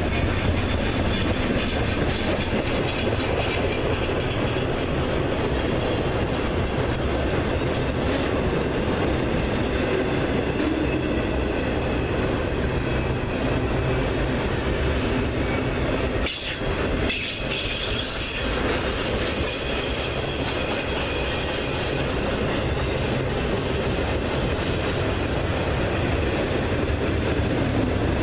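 Train cars rolling past on the rails, a steady rumble of wheels on track with faint wheel squeal, dipping briefly about two thirds of the way through.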